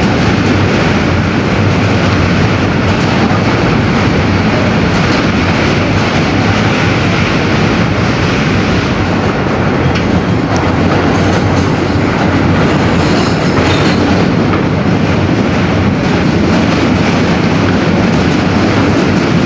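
R160B subway car in motion, heard from inside the car: steady, loud rumble of wheels on rails with clickety-clack over the rail joints.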